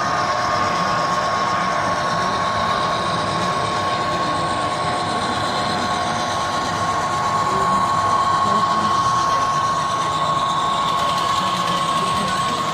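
Model train running on a layout, with a steady high whine over the running noise.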